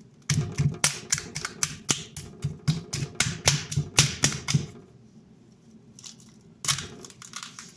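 A rapid series of sharp clicks, about four a second, for several seconds, stopping and then returning as a short cluster near the end.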